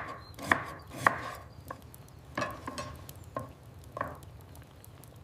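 Knife chopping on a cutting board: sharp strokes about twice a second at first, then slower and irregular.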